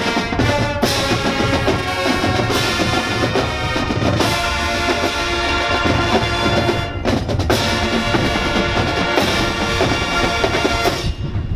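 High school marching band playing: brass chords over snare and bass drums, with the full band cutting off together near the end.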